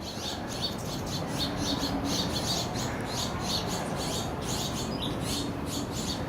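A small bird chirping over and over, quick short high chirps at about four or five a second, over a steady low background rumble.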